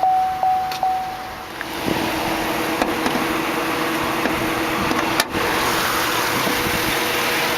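2008 Chevrolet Tahoe's 5.3-litre Vortec V8 idling steadily, with a vehicle warning chime dinging three times in quick succession at the start. There is a sharp click about five seconds in.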